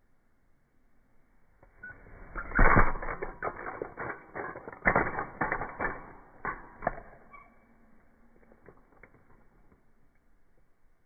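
Rapid, irregular clattering and knocking lasting about five seconds, loudest near the start and again in the middle, then tapering to a few faint ticks.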